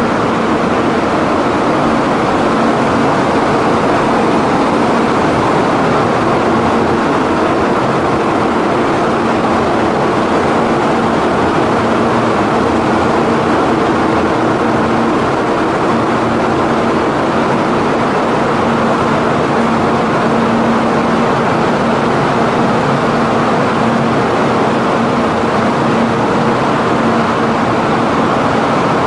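Steady running noise of a Kyushu Shinkansen 800 series train standing at the platform with its onboard equipment running. It is an even noise with a constant low tone underneath.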